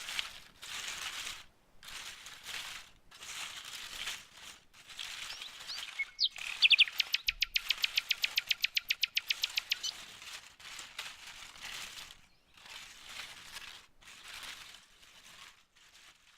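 Outdoor nature ambience. Bird chirps come near the middle, followed by a fast rattling trill of about nine notes a second lasting a few seconds, over repeated rustling bursts about a second apart.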